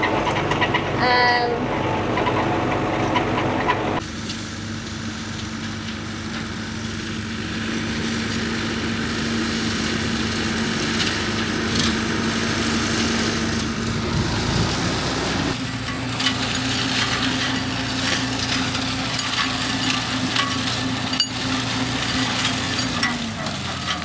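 New Holland TN85FA tractor's diesel engine running steadily under load, a constant hum with a hiss of working machinery over it. The sound shifts abruptly about four seconds in and again past the middle.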